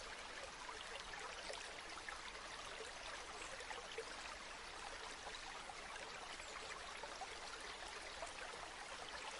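A river or stream flowing steadily: an even, faint wash of running water.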